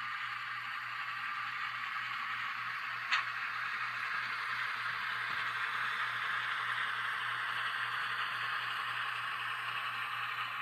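N-scale Kato E8A model diesel locomotive running with its Digitrax SDN144K0a sound decoder, a steady diesel-engine sound from its tiny speaker mixed with the rolling noise of the train on the track, swelling a little in the middle as it passes. A single sharp click about three seconds in.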